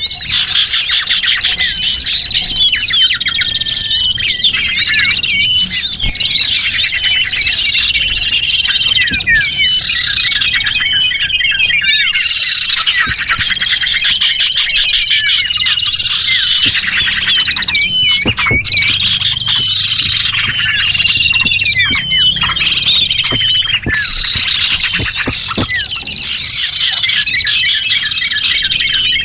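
Dense chorus of many small birds chirping and trilling together, with high rapid chirps overlapping and repeated level trills, continuous throughout. It is a bird-luring (pikat) call track meant to draw small birds in.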